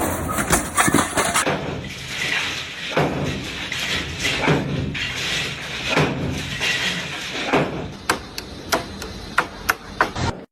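A run of knocks and bangs, one every half second to a second, over a steady clattering background, turning into a quick series of sharper clicks near the end before cutting off suddenly.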